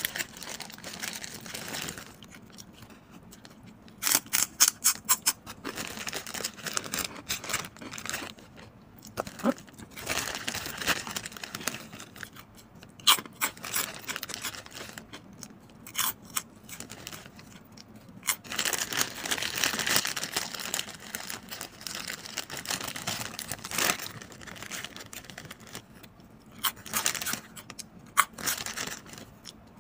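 Chicharon baboy (crisp fried pork rinds) being bitten and chewed: repeated bursts of sharp crackling crunches, with a rapid run about four seconds in and quieter chewing between.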